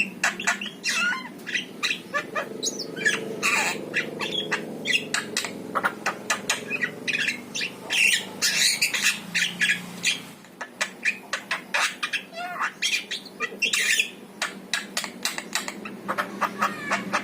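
Javan myna (jalak kebo) singing a rapid, varied string of chattering whistles and harsh squawks, with a short pause about ten seconds in.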